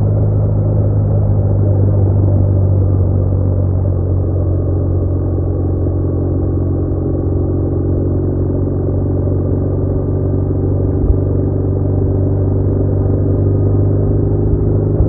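BMW R1200R boxer-twin engine running steadily under way, with a low drone and road and wind noise; a single short tick about eleven seconds in.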